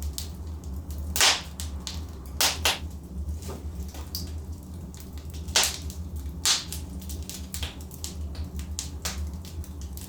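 Wood logs burning in a fireplace, crackling and popping irregularly over a steady low rumble of the fire, with a few sharper pops standing out.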